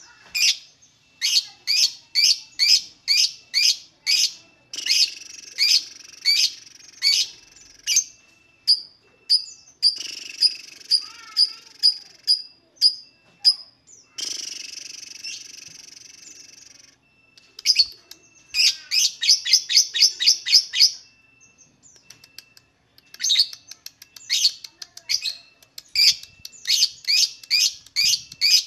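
Lovebird singing in long runs of sharp, high chirps, about four a second, with brief pauses between runs.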